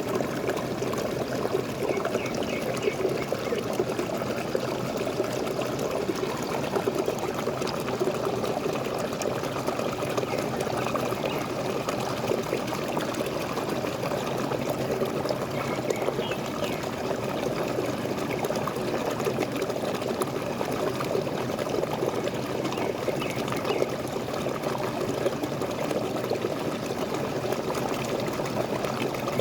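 Waterfall: water falling and running steadily, with no change in strength.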